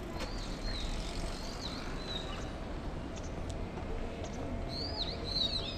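Small birds chirping in short arching calls: a few near the start, more about two seconds in, and a brighter run near the end. Under them runs a steady low background rumble.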